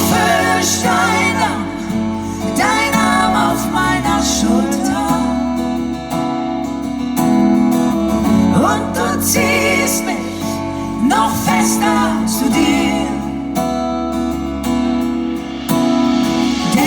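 Live acoustic music: strummed acoustic guitar and band accompaniment, with singing that comes and goes in short phrases.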